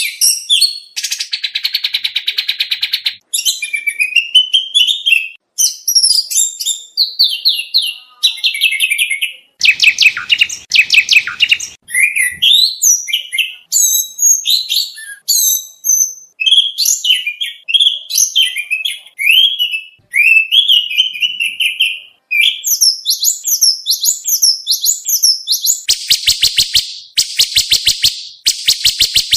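Oriental magpie-robin singing a long, varied competition-style song of whistles, chirps and quick phrases rich in borrowed material, broken by rapid buzzy rattling trills about a second in, around ten seconds, and again near the end.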